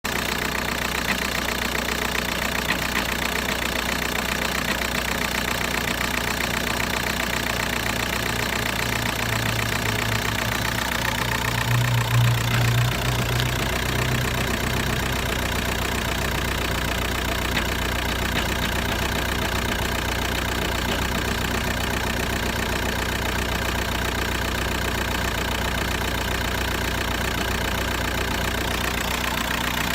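VW Bora's 1.9 TDI (ARL) four-cylinder turbodiesel idling steadily with diesel knocking, the engine shaking with a strange sound. Between about ten and fifteen seconds in, a louder low hum swells and fades.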